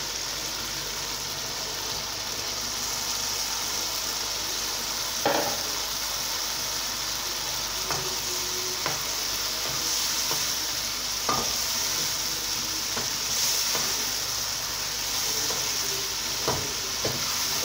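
Okra frying in a ghee-rich onion-tomato masala in a nonstick kadai: a steady sizzle while a spoon stirs it, clacking against the pan a few times.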